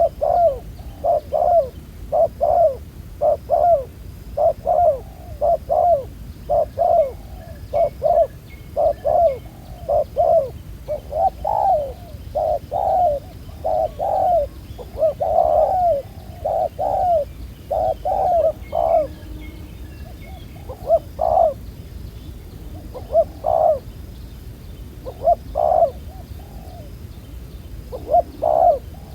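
Spotted dove cooing over and over in short low notes, steady for most of the time, then thinning out to a few calls with long pauses near the end. A faint, high, regular chirping from a small bird runs underneath.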